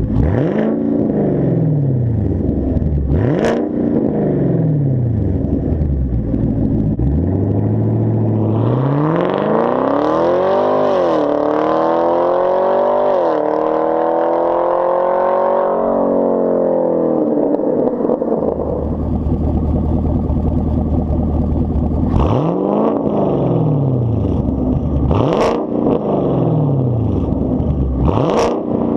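2019 Camaro SS's 6.2-litre LT1 V8, exhaust running with the mufflers and secondary catalytic converters removed, being revved in place. Two quick blips, then a long rev held high for several seconds that drops back to idle, then three more quick blips.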